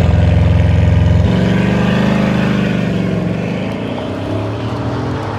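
High-performance supercar engine accelerating hard. Its note drops abruptly about a second in, typical of an upshift, then it slowly fades as the car pulls away.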